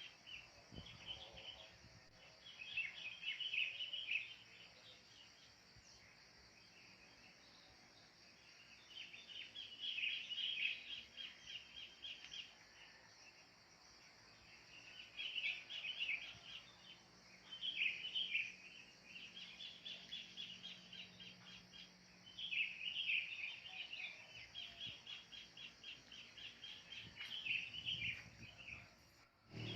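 Wild birds calling in bouts of rapid, high chattering notes every few seconds, over a steady high hiss.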